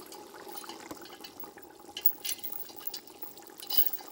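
Soup bubbling in a pot over a fire: a steady low wash of liquid with scattered small clicks and crackles.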